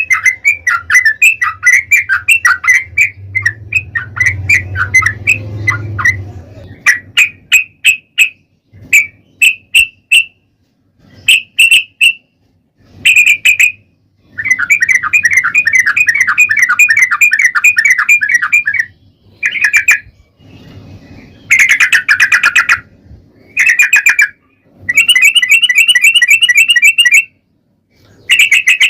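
Yellow-vented bulbul (trucukan) singing, a loud bubbly chattering song. It opens with a busy run of calls, breaks into single chirps about a second apart, then gives long rapid rattling runs of several seconds each, the fast repeated 'ropel' phrase.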